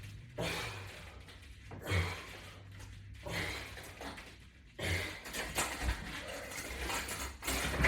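Soft bursts of breath and movement noise from a person doing resistance-band pulls, coming about every second and a half over a faint low hum.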